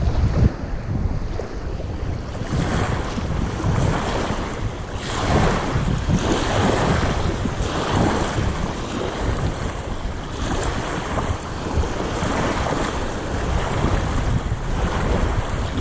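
Strong wind buffeting the microphone over sea waves washing against a boat, the splashing swelling every second or two.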